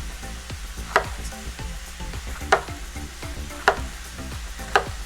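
Knife slicing jalapeños on a cutting board, four sharp knocks about a second apart, over the faint sizzle of ground turkey frying in a cast iron skillet.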